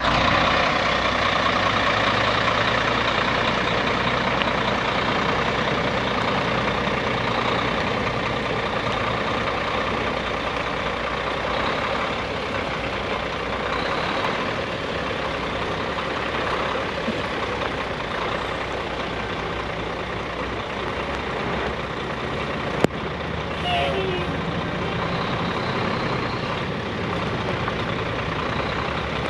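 Ford manure truck's engine running steadily, with a single sharp click late on.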